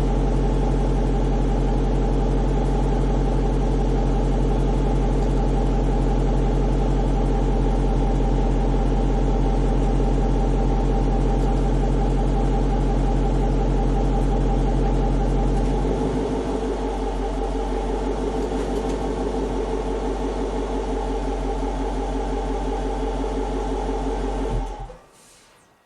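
5.7L HEMI V8 with a CORSA Xtreme cat-back exhaust and shorty headers idling steadily, its tone and low rumble dropping a little about two-thirds of the way through; the engine is then switched off and the sound cuts off near the end.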